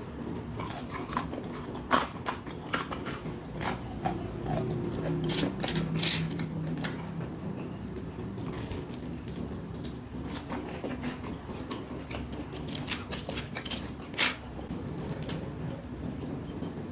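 Close-up eating of fried snacks (gorengan): biting and chewing with many sharp, crackly mouth clicks. The clicks come thickest in the first seven seconds and again about fourteen seconds in.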